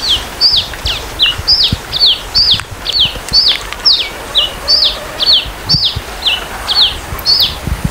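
Red-capped cardinal (Paroaria gularis) singing: a steady series of short, high, down-slurred notes, about two a second, some a little lower than others.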